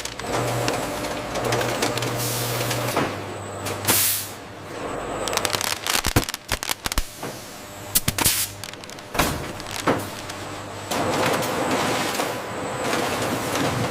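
Factory machinery noise: a steady low hum under hissing. A loud whoosh comes about four seconds in, and a quick run of clanks and clicks follows in the middle.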